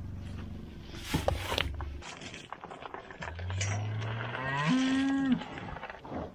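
A cow moos once, a long call of about two seconds that starts low and rises in pitch partway through before breaking off.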